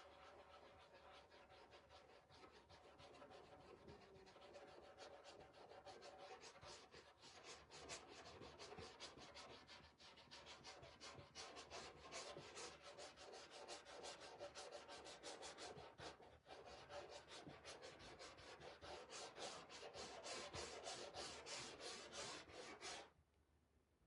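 Dark wax being rubbed onto a painted surface in quick, repeated back-and-forth strokes. The strokes stop abruptly near the end.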